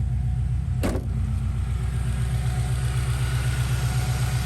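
2006 Subaru Outback XT's turbocharged 2.5-litre flat-four idling steadily, just started after an oil change. A single sharp click about a second in.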